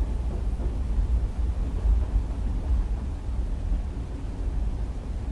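Steady deep rumble of a train ride with rain on the carriage window, a continuous ambience with most of its weight in the bass and no distinct clicks or drops standing out.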